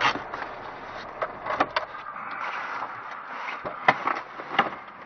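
Car noise heard from a dashcam inside a vehicle, with a handful of sharp knocks and clicks scattered through it, just after a collision.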